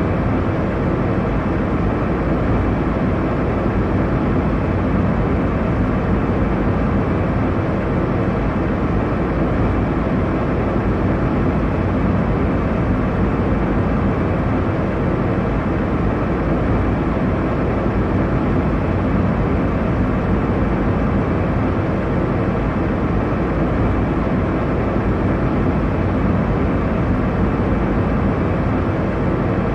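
Airliner cabin noise in flight: a steady, unbroken rushing drone of engines and airflow, weighted to the low end.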